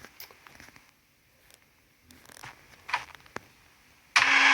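A few faint clicks and taps of small toy pieces being handled. About four seconds in, a loud hissing noise with a low hum under it starts abruptly.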